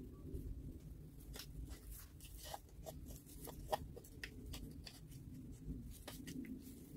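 Faint, irregular light clicks and taps from small parts being handled, over a low steady hum; one click about three and a half seconds in stands out as the loudest.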